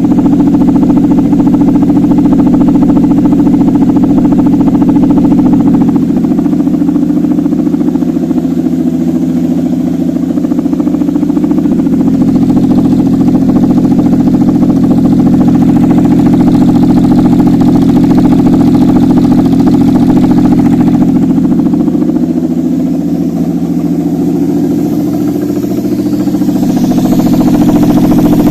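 Toyota 5VZ-FE 3.4-litre V6 running steadily at idle on an engine test stand, a check run of a used engine.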